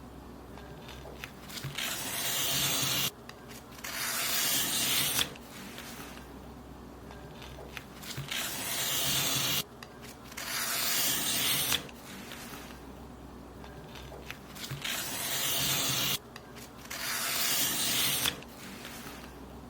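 Paper being cut in long, hissing strokes, each lasting about a second and a half. The strokes come in pairs with short pauses between the pairs, three pairs in all.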